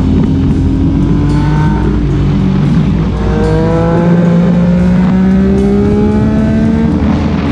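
Motorcycle engine accelerating over a heavy low rumble, its pitch rising slowly for several seconds.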